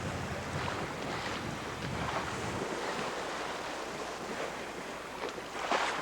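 Wind buffeting the microphone over the steady rush of open-ocean water past a sailboat under way, with a louder surge of water near the end.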